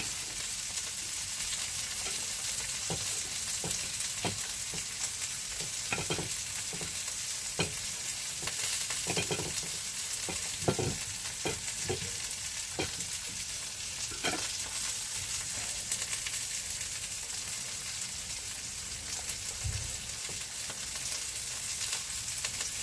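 Potatoes frying in a pan with a steady sizzle, with scattered clicks and scrapes of a utensil stirring them during the first two-thirds.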